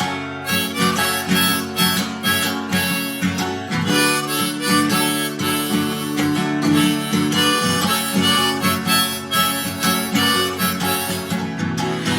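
Harmonica playing a solo over strummed acoustic guitar in an instrumental break of a country-blues song.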